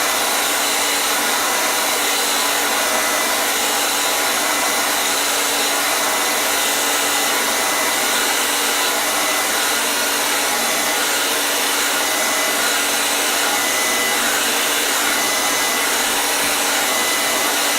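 Hair dryer running steadily: an even, unchanging rush of air noise with a faint whine from the motor.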